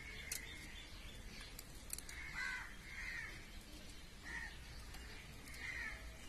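A bird calling about four times in short, harsh calls, with a few faint clicks near the start, over a low background hum.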